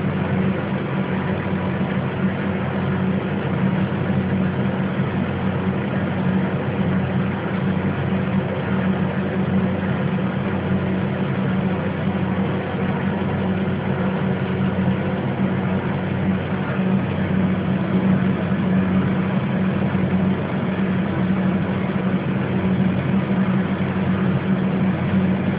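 Steady low machine hum from a running motor, unchanging throughout.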